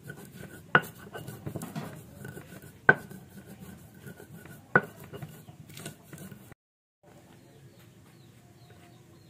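Kitchen utensils and dishes clattering and scraping, with three sharp knocks about two seconds apart. A sudden break near the two-thirds mark gives way to quieter room sound.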